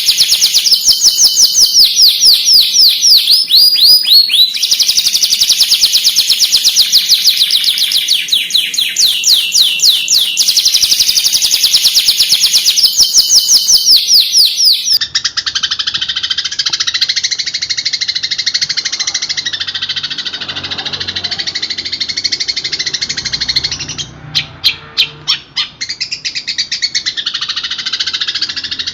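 Long-tailed shrike (cendet) song from a masteran recording: a loud, fast string of repeated high chirps. About halfway through it switches abruptly to a denser, more continuous twittering, with a short run of separate chirps near the end.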